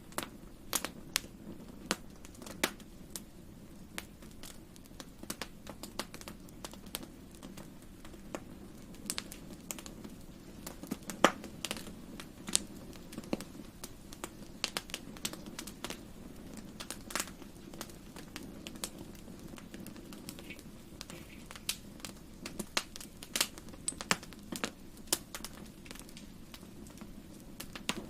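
Wood fire in a fireplace crackling, with irregular sharp pops over a low steady rumble of the flames. One pop about eleven seconds in is louder than the rest.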